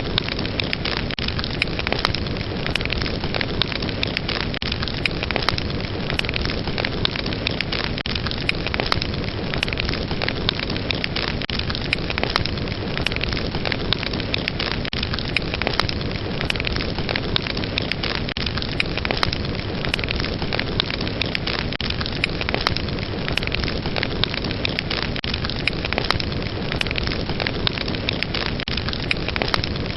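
Fire burning: a steady hissing rush with frequent small crackles and pops.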